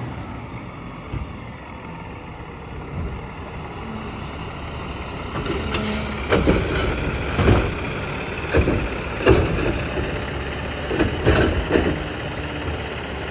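Peterbilt McNeilus side-loader garbage truck running, with a string of loud metal clanks and bangs starting about five and a half seconds in.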